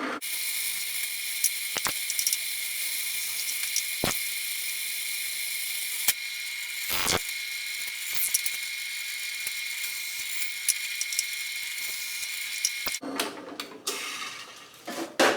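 Electric drill running at a steady high whine, boring holes through a knife's handle scale, with a few sharp knocks as the work is handled. The drill stops about 13 seconds in, followed by a short clatter of handling.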